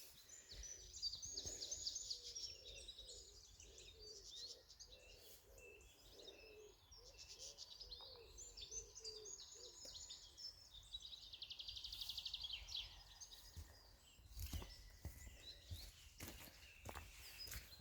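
Woodland birdsong: several small songbirds singing and chirping in high, quick phrases, with a dense fast trill about twelve seconds in. Faint footsteps on the track near the end.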